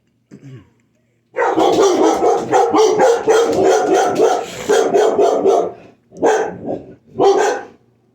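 Two dogs barking in a loud, rapid, continuous run for about four and a half seconds, then three separate barks near the end.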